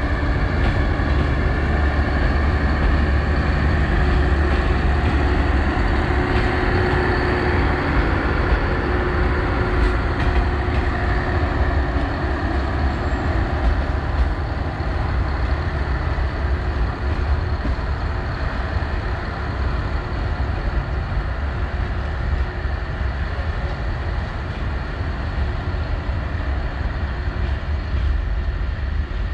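A departing passenger train's carriages roll over the rails and draw away, a steady low rumble that eases slightly as the train recedes.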